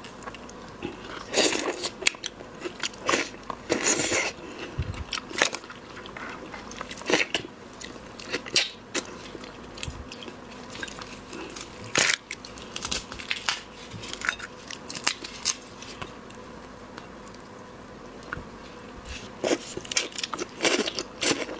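A person chewing and biting into shellfish, with wet mouth sounds and irregular sharp crunches and clicks of shell, bunched in clusters.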